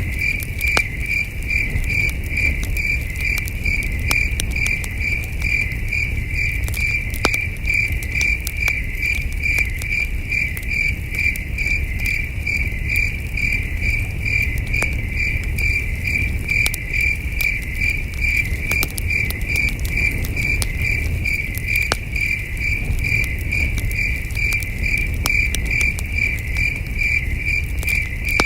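Crickets chirping in a steady, evenly pulsed rhythm, with a campfire crackling in scattered sharp pops over a low rumble.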